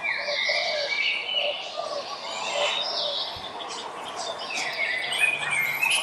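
Several songbirds chirping and singing at once, in overlapping phrases of high, gliding whistled notes with some lower calls beneath.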